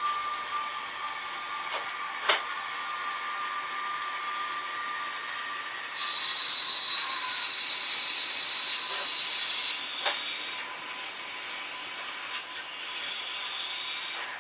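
H0-scale model trains running on a layout: a steady hiss with a faint motor whine, and a sharp click about two seconds in. About six seconds in, a loud, high whistle is held for nearly four seconds and cuts off suddenly.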